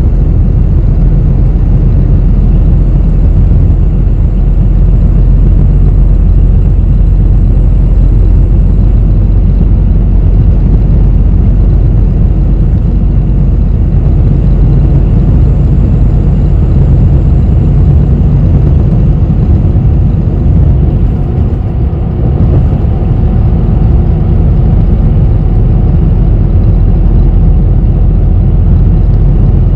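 Interior of a Korean bus on the move: steady low engine and road rumble, dipping briefly about two-thirds of the way through.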